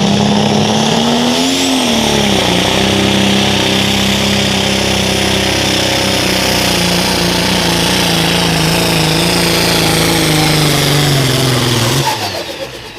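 Pro stock pulling tractor's turbocharged diesel engine running at full throttle under load. Its pitch dips about two seconds in, then sags slowly as the sled bogs it down, and the engine note cuts off sharply near the end. The announcer takes the tractor to be down a cylinder.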